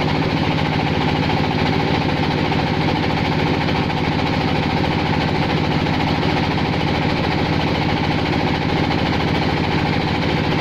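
Clay-processing machine for roof-tile making running steadily under power, with a fast, even pulse throughout.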